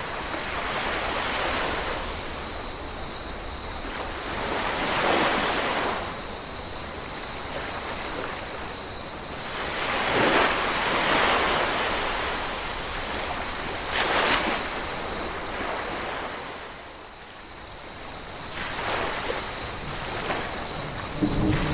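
Ocean waves breaking and washing up on a beach, swelling in separate surges every few seconds under a thin, steady high tone. A low hum comes in near the end.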